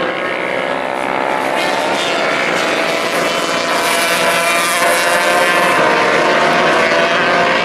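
Several racing motorcycles running at high revs together, their engine notes rising and falling in pitch as they pass and change gear.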